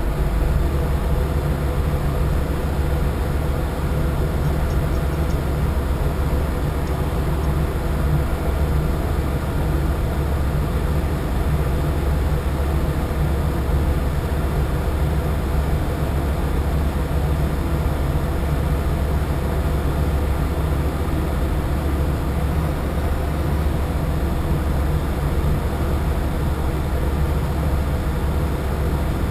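A boat's engine running steadily underway: a constant, unchanging low drone with a hum above it and a wash of noise.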